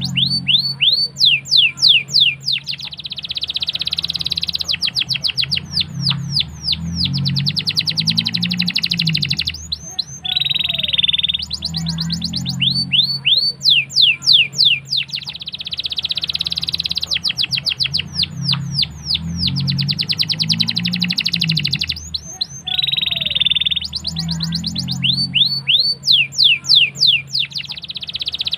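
Domestic canary singing: rapid series of sweeping whistled notes alternating with long, dense rolling trills. The same song sequence repeats about every twelve seconds.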